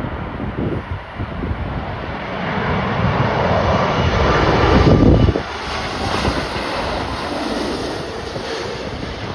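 Jet airliner passing, its engine noise swelling to a peak about five seconds in and then easing away, with gusty wind rumbling on the microphone.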